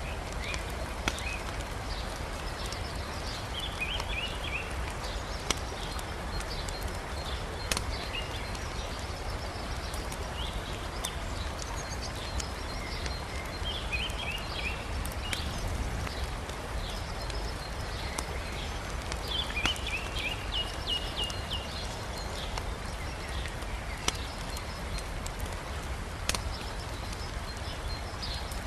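Wood campfire crackling, with a few sharp pops from the burning logs spread through, over the steady rush of a river. Short high bird chirps come in several times.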